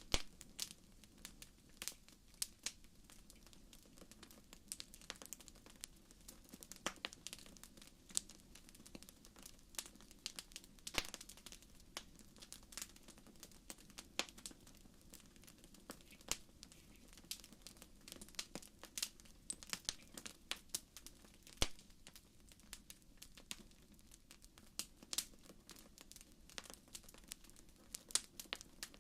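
Wood fire crackling in a fireplace: irregular sharp pops and snaps, several a second, over a faint low hiss of the burning.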